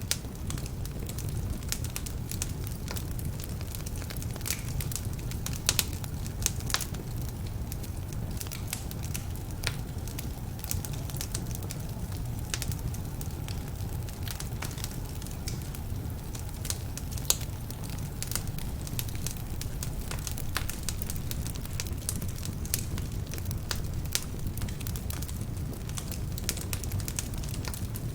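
Wood fire burning in a fireplace: a steady low rumble of flames with frequent irregular sharp crackles and pops, from logs that are somewhat damp.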